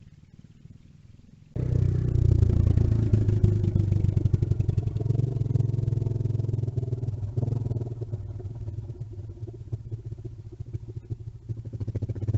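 Small mini bike engine running close by, coming in suddenly about a second and a half in with a rapid, even putter. It eases off a little in the middle and grows louder again near the end.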